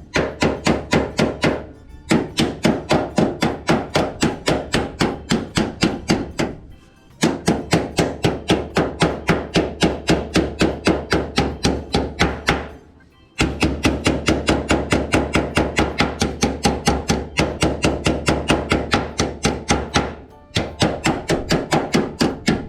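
Hammer striking sheet steel in quick, even runs of about four to five blows a second, each blow ringing, with short pauses between the runs: a patch panel being beaten into shape for a car's side sill.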